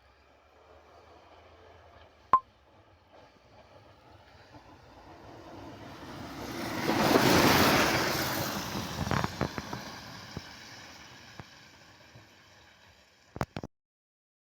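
A vehicle passing by: its noise swells over a few seconds to a peak about halfway through, then fades away. A sharp click comes a couple of seconds in, and a few clicks come near the end.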